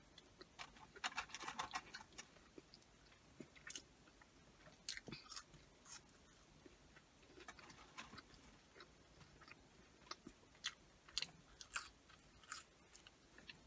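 Faint, close-up chewing and mouth sounds of a person eating French fries: scattered soft clicks and smacks with quiet in between.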